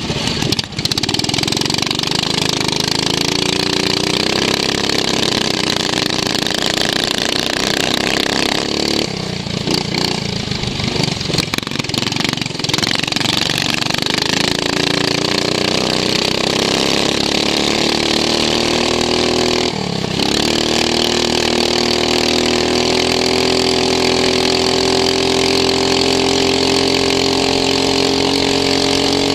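Racing lawn mower's engine heard from onboard, rising in pitch as it accelerates, falling off around nine seconds in and briefly again at about twenty seconds, then holding high revs steadily through the last part.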